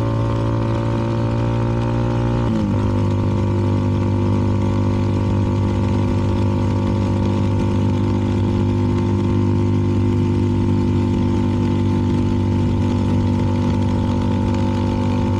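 CFMoto 300NK single-cylinder engine with a KO aftermarket exhaust, running under way with a steady engine note. About two and a half seconds in the note drops once, as with an upshift, then holds at a lower, even pitch while cruising.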